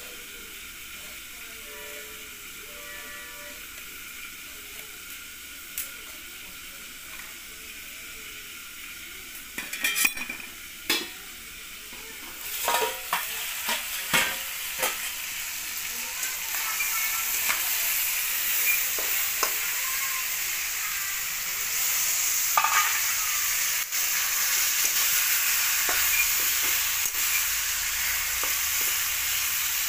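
Chicken pieces sizzling as they fry in oil in a kadai, stirred with a metal spatula that scrapes and knocks against the pan. A few sharp knocks come about ten seconds in, then the sizzle starts and grows steadily louder.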